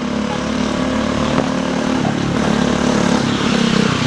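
Mini motorcycle's small engine running steadily.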